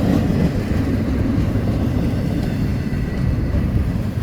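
Container freight cars of a long freight train rolling past, a steady low rumble of wheels on the rails.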